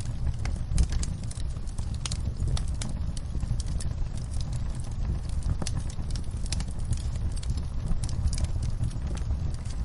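Wood fire crackling in a fireplace: irregular sharp pops and snaps over a steady low rumble, with rain falling.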